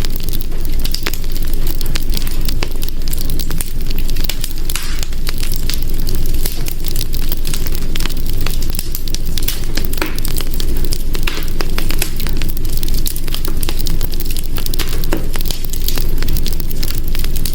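Hearth fire crackling: a steady low rumble of flame, with frequent sharp pops and snaps at irregular intervals.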